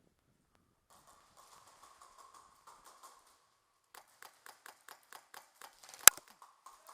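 Footsteps on a hard floor, an even run of about three or four steps a second, with one sharp loud crack near the end.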